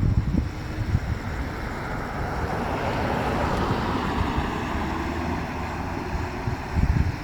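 BMW R1200R boxer-twin motorcycle under way, its engine running beneath heavy wind buffeting on the microphone. A broad rushing noise swells about three seconds in and fades again.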